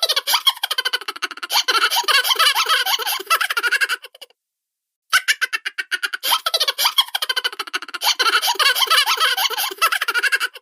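Cartoon laughter and chuckles: a fast run of pitched laughing pulses lasting about four seconds, then after a pause of about a second the same laugh repeats.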